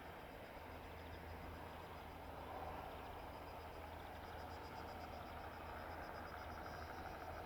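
Bell 206B-3 JetRanger III helicopter running, its Allison 250 turboshaft turbine and two-blade main rotor making a steady, faint sound with a fast, even rotor beat, growing a little louder about two and a half seconds in.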